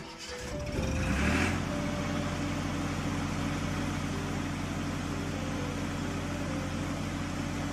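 Cartoon truck engine sound effect: it builds up over the first second and a half, then runs steadily as a low engine hum with hiss.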